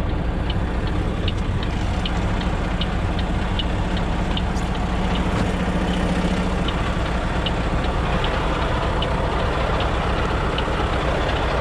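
Semi truck's diesel engine running at low speed while the tractor is backed under a trailer to hook up. A faint, even tick sounds about twice a second, and the engine's note changes about two-thirds of the way through.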